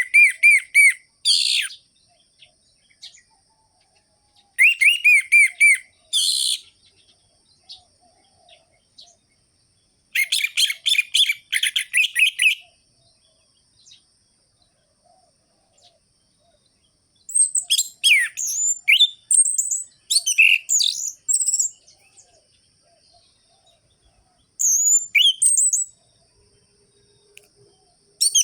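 Orange-headed thrush singing in separate bursts a few seconds apart. Some bursts are fast runs of repeated notes; later phrases are more varied, with sliding whistles.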